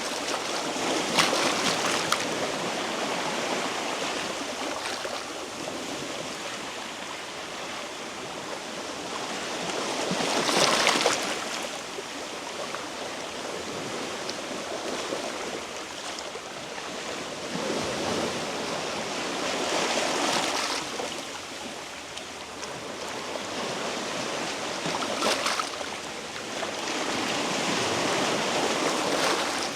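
Sea waves washing against a rocky shore, surging and falling back every five to ten seconds, the loudest surge about ten seconds in.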